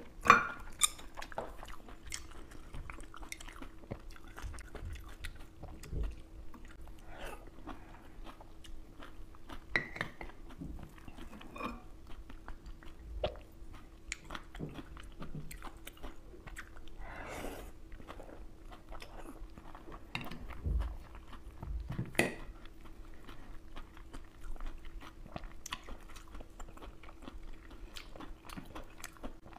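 Close-miked chewing and biting of oysters, with scattered sharp clicks of oyster shells and wooden chopsticks knocking against the plate, the loudest just after the start.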